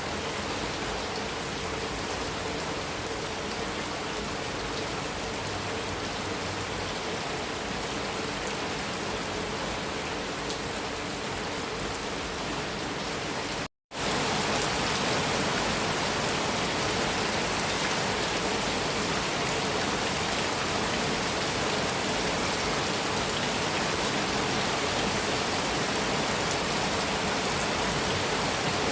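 Heavy rain falling steadily on a metal roof, a dense, even hiss of drops. About halfway through it cuts out completely for a split second, then comes back slightly louder.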